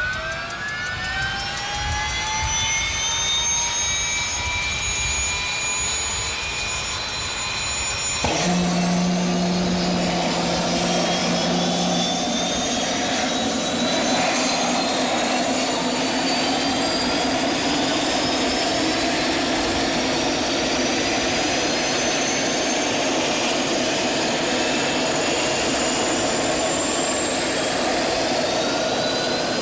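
SwiftFIRE turbine engine starting: a whine climbs steadily in pitch as it spools up. About eight seconds in the sound changes suddenly, a broad rushing noise and a low hum join for a few seconds, and the whine keeps slowly rising as the engine accelerates.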